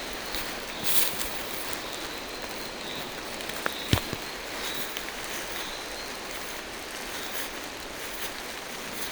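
Steady rain falling through forest trees, with a few sharp taps of drops landing, the loudest about four seconds in.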